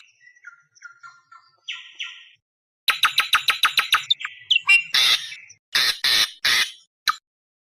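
Awar-awar bird calling, as played for luring wild birds. A few faint whistled notes come first. About three seconds in there is a fast run of about ten harsh notes a second, then several separate harsh squawks.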